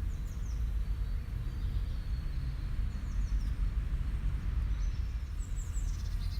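A small bird's high chirps: short falling notes in quick runs of three or four, heard three times over a steady low rumble.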